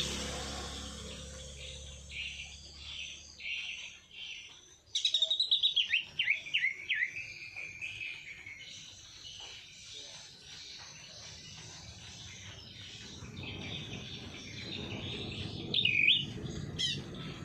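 Songbirds chirping and singing. About five seconds in comes a loud, rapid run of falling notes, and near the end another short loud burst.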